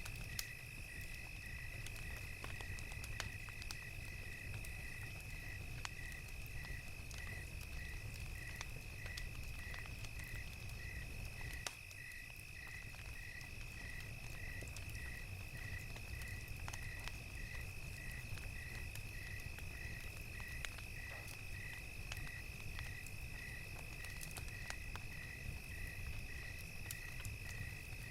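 Night ambience of crickets and a crackling fire: a steady high cricket trill with a second cricket chirping evenly about one and a half times a second, over scattered sharp pops and crackles from the fire and a low steady rumble.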